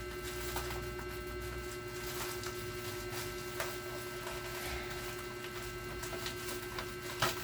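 Steady electrical hum, with faint scattered rustles and clicks from a parcel's packaging being handled and opened, and one sharper click near the end.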